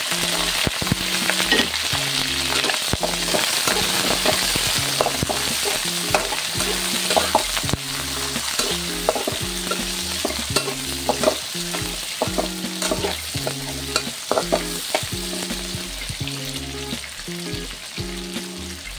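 Chopped onions, shallots, dried chillies and lemongrass sizzling in hot oil in a wok. A metal spatula stirs them, scraping and clicking against the pan.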